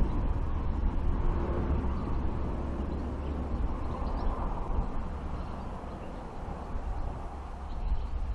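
Outdoor field ambience: a steady low rumble under a broad hiss that swells around the middle and eases off, with the rumble picking up again near the end.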